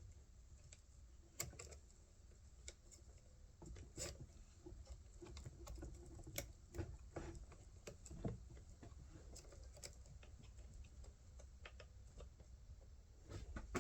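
Scattered light clicks and taps of small metal parts being handled, from work on a chainsaw's bar and chain during reassembly.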